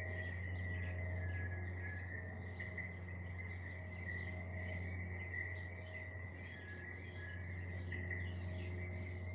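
Small garden birds twittering with quick, scattered chirps over a steady high-pitched insect-like tone and a constant low hum.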